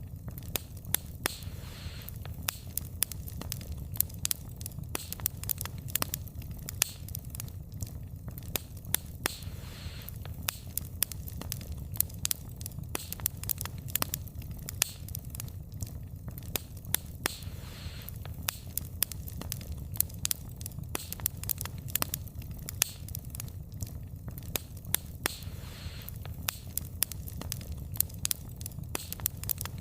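Wood fire burning, its logs crackling with frequent irregular sharp pops and snaps over a steady low rumble of the flames.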